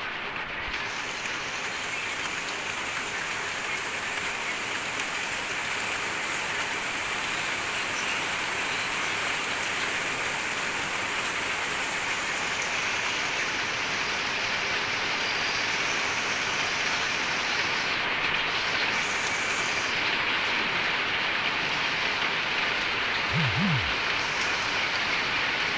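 Steady rain falling, an even hiss that grows slowly louder.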